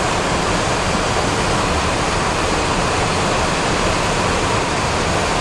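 Steady in-flight flight deck noise of a Boeing 737-400: an even, unbroken rush of airflow around the cockpit, with engine noise underneath.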